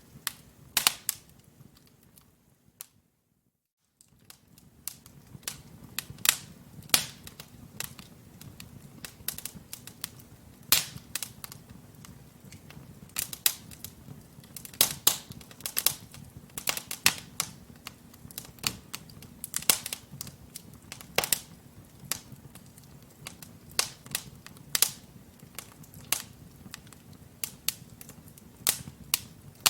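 Wood fire in a fireplace: burning logs crackling with irregular sharp pops over a low, steady rumble of flames. The sound drops out to silence for about a second and a half near the start.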